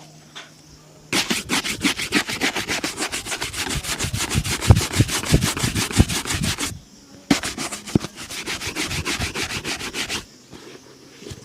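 A leather shoe being buffed in rapid back-and-forth strokes, several a second, during shoe polishing. There are two runs of brisk rubbing, the first about five seconds long and the second about three, with a brief pause between them.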